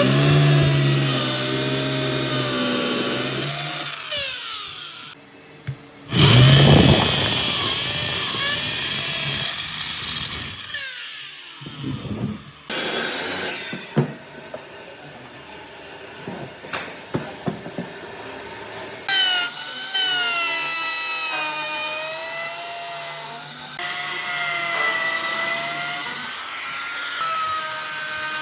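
Woodworking power tools running on wood, with motor whines that waver in pitch as the tool is loaded. The sound changes abruptly several times, as if from one short clip to the next.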